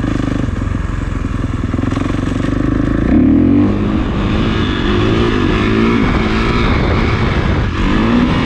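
Kawasaki KX450 dirt bike's single-cylinder four-stroke engine running under way. It gets louder about three seconds in, and its pitch then rises and falls again and again as the throttle is worked.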